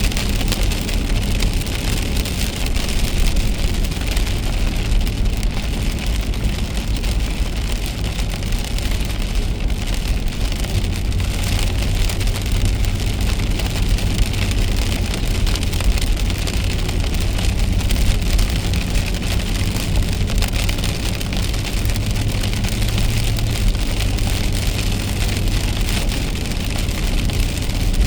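Car driving in the rain: a steady low rumble of the car on a wet road, with rain hissing and ticking on the car.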